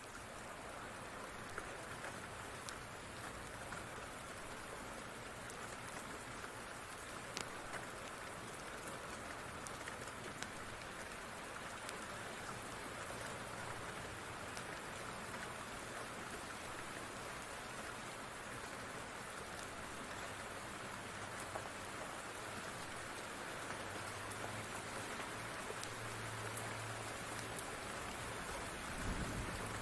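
Steady rain falling, an even hiss with scattered faint sharp crackles. A low rumble swells in the last few seconds, with a deep thump near the end.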